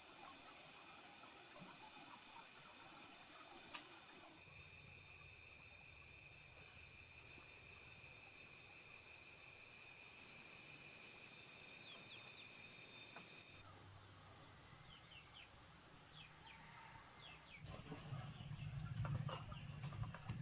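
Faint outdoor ambience of a steady, high-pitched insect drone, with one sharp click about four seconds in and louder knocks and rustling near the end.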